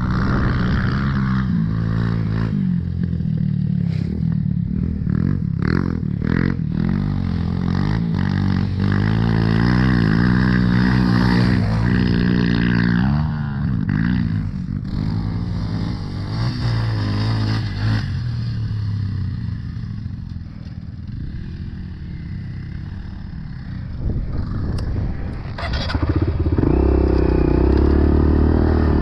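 Dirt bike engine revving up and down as it is ridden through soft sand and ruts, with scattered clatter and knocks from the bike. About twenty seconds in it drops to a lower, quieter run for a few seconds, then picks up again near the end.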